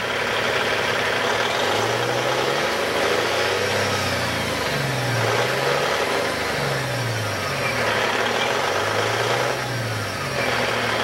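Caterpillar C15 single-turbo inline-six diesel engine, freshly started, running and revved up and down several times, its pitch rising and falling in repeated swells.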